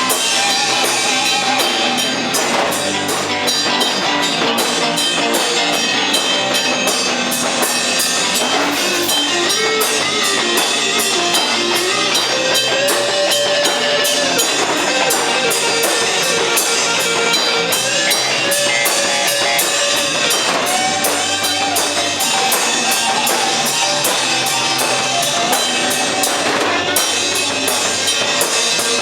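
Rock band rehearsing live: electric lead guitar playing bending melodic lines over a drum kit that keeps a fast, steady beat on the cymbals.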